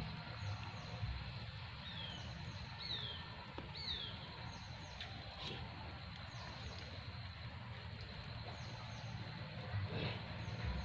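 Wild birds calling: a running series of short, high, falling chirps, with three louder falling whistles about two to four seconds in, over a low background rumble. A brief sharp knock near the end.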